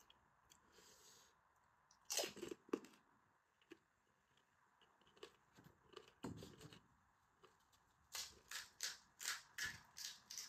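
Crisp pani puri shells being bitten and chewed, heard close up through a lapel mic. There are a few separate crunches at first, then a quick even run of chewing crunches, about three a second, near the end.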